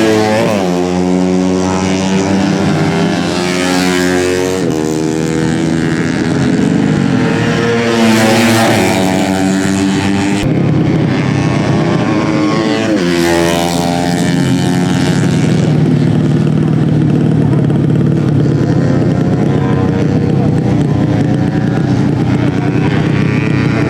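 Tuned 130 cc four-stroke underbone race motorcycles running at high revs, several at once. Their engine pitch sweeps down as bikes pass by, about a third of the way in and again just past halfway.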